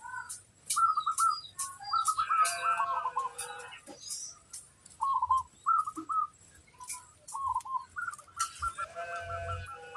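Zebra doves (perkutut) cooing: short rolling coo phrases repeated over and over, several birds overlapping at times. Sharp high chirps from other birds run through it.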